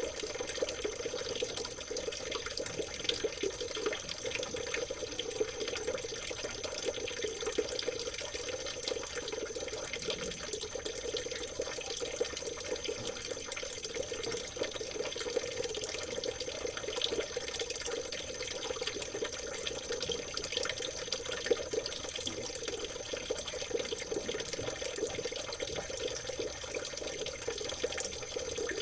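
Water trickling and babbling steadily, a dense run of small splashes with no pause, with a faint steady high tone above it.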